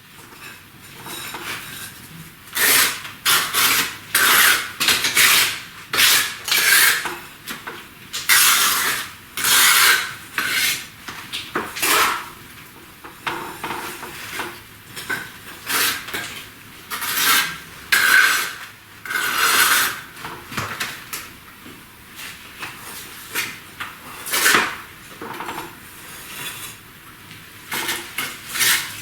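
A hand tool scraping clay-sand mortar against brick: repeated rasping strokes at an uneven pace, some sharper and louder than others.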